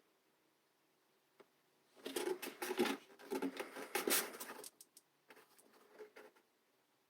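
Rustling and scratching of craft materials being handled, for about three seconds starting some two seconds in, then softer for about a second.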